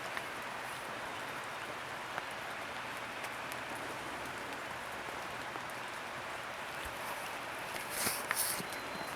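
Steady patter of rain in woodland, with a short burst of louder, hissier noise about eight seconds in.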